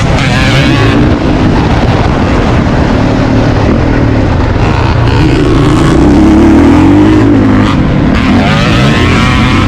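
Motocross dirt bike engine revving hard and backing off over and over as it is ridden around the track, its pitch rising and falling, loudest about six seconds in.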